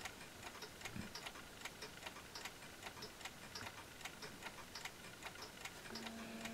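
Mechanical clocks ticking softly and steadily, several ticks a second. A faint steady tone joins near the end.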